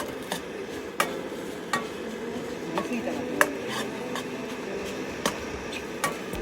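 Fried rice being stir-fried in a frying pan over a wood fire: a spatula scraping and knocking against the pan about seven times over a sizzle.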